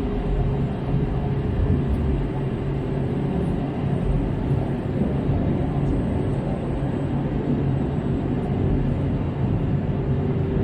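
Steady cabin noise inside an Airbus A321-271NX: an even rumble of engines and airflow with a faint steady hum.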